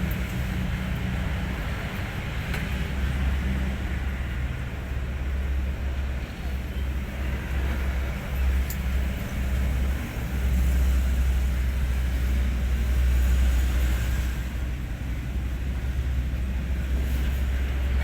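Hino 500 truck's diesel engine running, a steady low drone that swells louder about halfway through and eases back a few seconds later.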